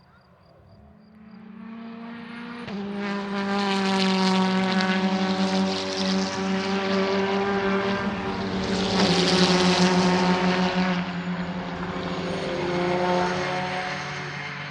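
Racing car engine at full throttle on a circuit, building in over the first few seconds, loudest around the middle, then easing off. Its note jumps in pitch at gear changes, about three seconds in and again near nine seconds.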